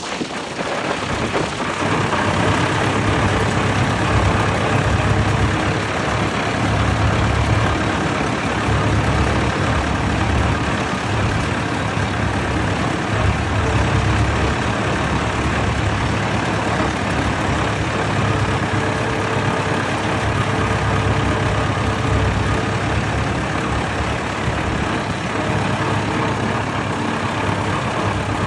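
Vintage tractor engine running steadily, with a low throb that swells and fades every second or two.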